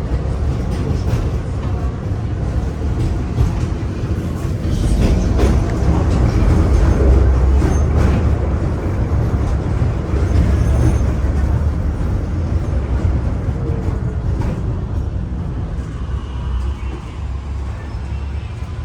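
Tram running along its rails, heard on board: a steady low rumble of wheels and running gear with scattered clicks and rattles. It grows louder towards the middle and eases off near the end.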